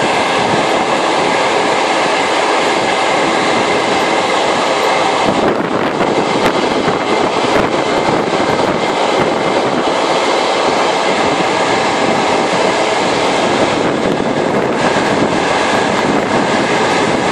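Passenger train running at speed, heard from on board: a loud, steady rumble and rattle of wheels on rails, with a faint steady whine over the noise.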